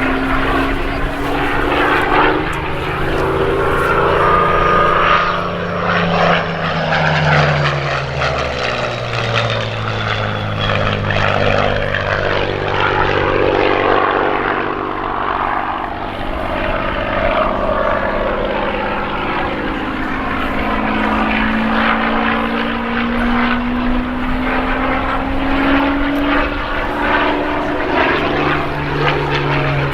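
Spitfire and Hurricane fighters passing in formation, their V12 piston engines droning together, with several engine notes overlapping. Some notes slide down in pitch several seconds in, and others climb slowly later on as aircraft come and go.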